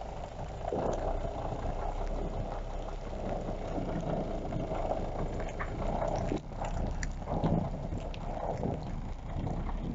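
A truck running steadily, with a few scattered knocks.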